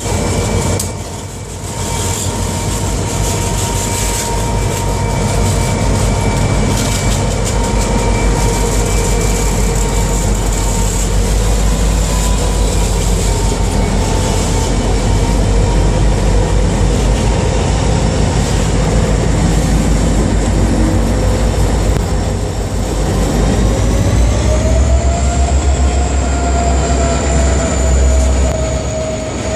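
EMD diesel-electric locomotives pulling a tanker train: a steady deep engine rumble with high whining tones over it. About 24 s in, the whine rises in pitch and the rumble grows louder.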